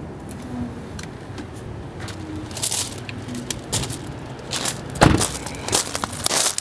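Scattered clicks, knocks and scrapes, with the loudest knock about five seconds in and several more near the end.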